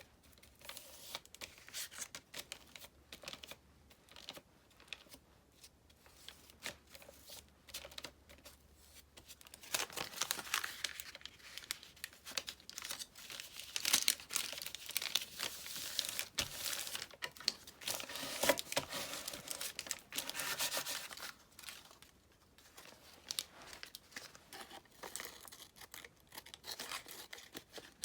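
Paper being handled, torn and crinkled by hand while a collage layer of thin, tissue-type papers is laid down. The rustling comes in irregular bursts and is busiest through the middle.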